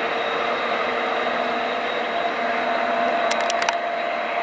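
Diesel-hauled passenger train pulling away on a curve: a steady engine drone, with a quick run of sharp clicks about three and a half seconds in.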